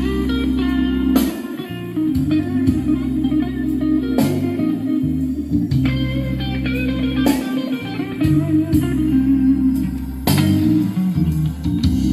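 Slow blues instrumental passage, an electric guitar lead over sustained bass with occasional drum hits, played back through 1983 RFT L2503 full-range paper-cone speakers in open-back cabinets.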